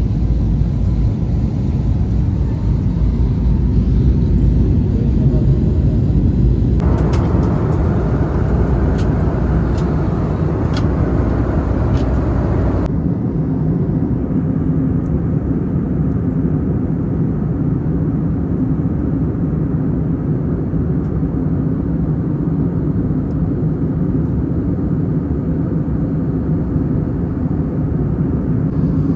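Airliner jet engines and airframe heard from inside the cabin as a steady low rumble. About seven seconds in a brighter hiss joins it and then drops away suddenly about six seconds later.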